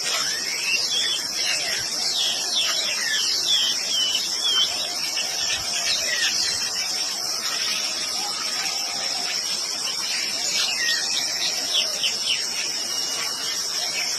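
Steady high-pitched insect chorus, crickets or similar, with many short chirping bird calls over it.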